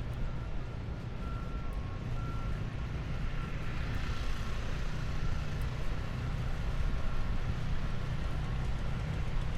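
A heavy vehicle's engine running low and steady, with a reversing alarm beeping in short, evenly spaced pulses through the first three seconds. Around four seconds in, a hiss swells up over the engine.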